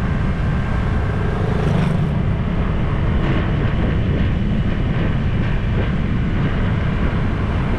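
Motor scooter on the move, its engine running under a steady low rumble of riding noise picked up by a GoPro mounted on the scooter.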